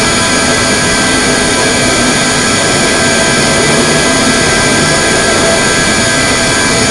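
Airbus A321neo turbofan jet engines running steadily at takeoff or climb power: a loud, unchanging rush with several steady whining tones.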